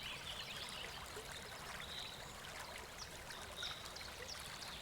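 Small babbling brook, water trickling and gurgling steadily and faintly over stones.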